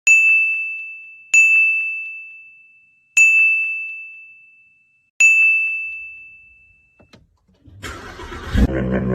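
A small, high-pitched bell struck four times at uneven intervals, each ring dying away over a couple of seconds. Near the end a low rumbling sound starts up.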